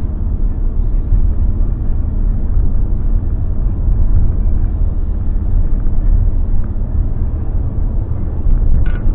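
Steady low rumble of a car driving, heard from inside the cabin: road and engine noise, with a short tick near the end.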